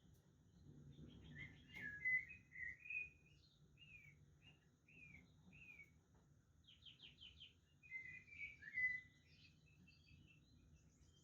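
Budgerigars chirping and warbling, faintly. A dense burst of chatter comes about two seconds in, then a string of single chirps, and another burst near nine seconds.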